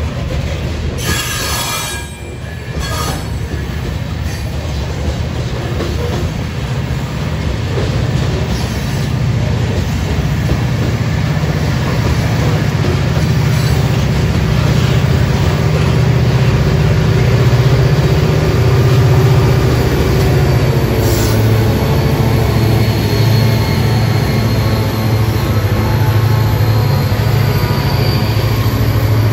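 Freight train of covered sand hopper cars rolling past: steady rumble and clatter of steel wheels on the rails, growing louder, with a faint wheel squeal now and then.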